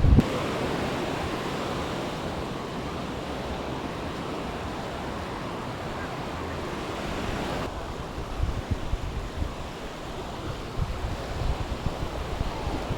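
Sea surf washing on a beach in a steady rush, with wind rumbling on the microphone in gusts during the second half.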